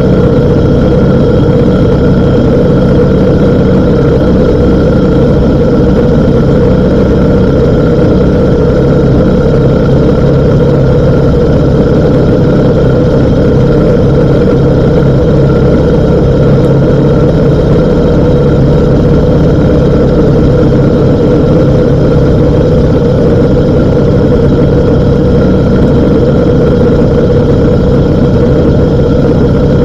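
BMW R1250 GS Adventure's boxer-twin engine running at a steady speed, with no revving or gear changes.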